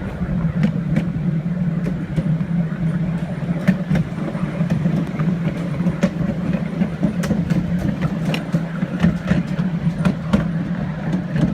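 Train running along a heritage line, heard from the driver's cab: a steady low drone with scattered irregular clicks and knocks.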